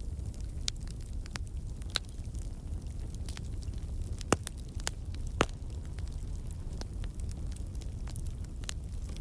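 Campfire of burning logs crackling: irregular sharp pops and snaps over a steady low rumble, with two louder pops about four and five seconds in.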